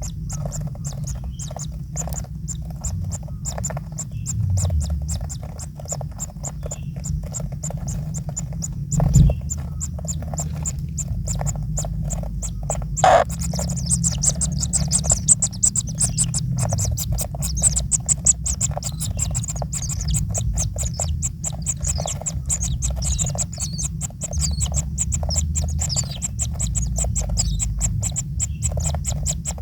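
Small kingfisher chicks in the nest giving rapid, high-pitched chittering begging calls, which thicken after the first third, over a steady low rumble. Two short loud thumps come at about a third and just under halfway through.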